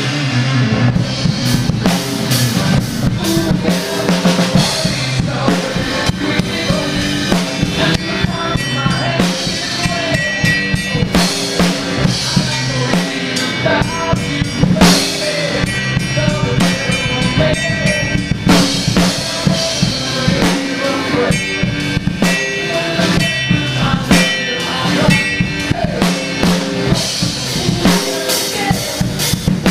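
DW Collectors Series drum kit played in a busy groove, with kick drum, snare and rimshots, over recorded backing music.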